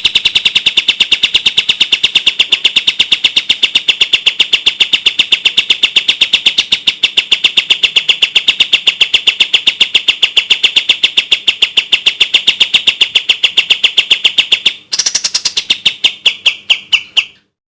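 Kapas tembak bird singing its 'tembak' song: a long, fast, even run of clear, sharp repeated notes, several a second. A brief break comes about fifteen seconds in, then a few more notes, the last one falling, before it stops.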